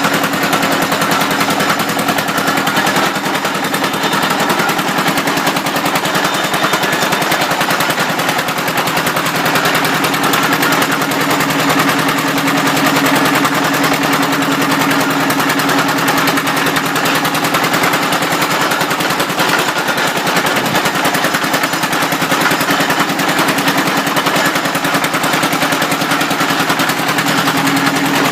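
Drilling machine running steadily, with a loud, fast and even rattling pulse.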